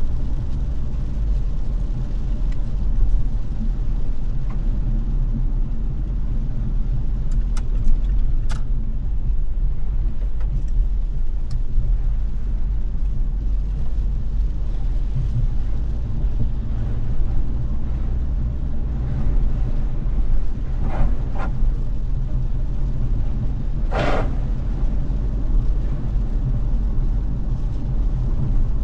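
Car being driven, with a steady low road rumble under a constant hiss. A few faint clicks come near the start, and a brief, louder hiss stands out about 24 seconds in.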